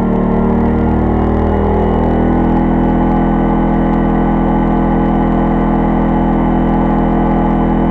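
Pulsar 2300-watt inverter generator's single-cylinder four-stroke engine running loud with eco mode off, carrying the load of a microwave oven. Its pitch shifts for the first couple of seconds, then holds a steady speed.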